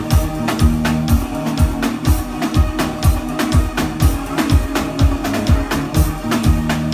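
Live band playing an uptempo soca groove with no vocals: a steady kick drum about twice a second under bass and guitar.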